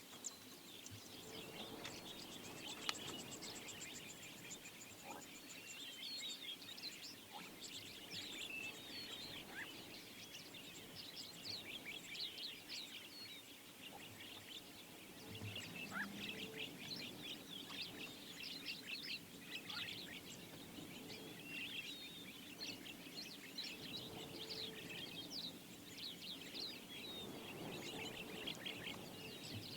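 Small birds chirping and twittering, many quick, high calls overlapping throughout, faint, over a low background hum.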